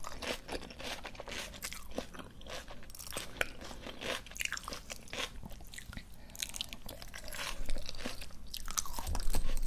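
Close-miked crunching and chewing of crisp, juicy raw food (ice plant or sea grapes), a steady run of crackles and pops between bites, growing louder near the end.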